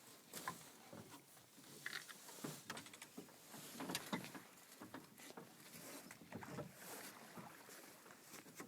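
Faint, irregular small splashes and ticks of river water lapping against a drifting boat's hull.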